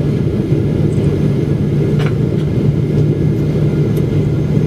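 Steady low drone of a Boeing 777-300ER's engines and airflow heard inside the passenger cabin during the approach to landing, with a faint tick about two seconds in.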